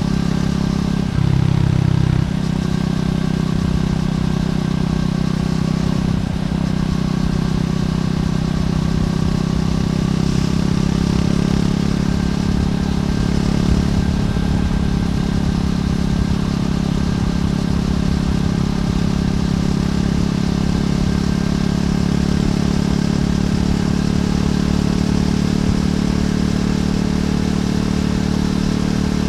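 Triumph Scrambler 400X's single-cylinder engine running through its stock exhaust while riding at a steady pace, with a brief louder surge about a second in.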